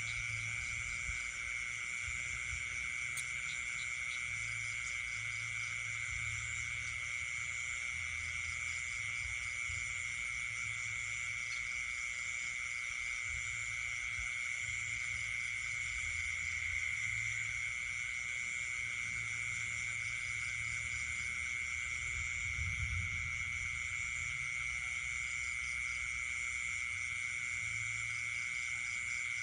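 Night chorus of frogs and insects: a continuous high-pitched insect trill, with frogs calling on and off underneath.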